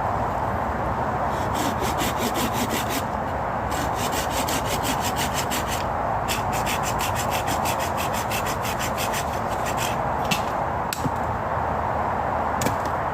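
A hand tool working wood with quick, rhythmic rasping strokes in three runs of a few seconds each, then a couple of single knocks. A steady hiss runs underneath.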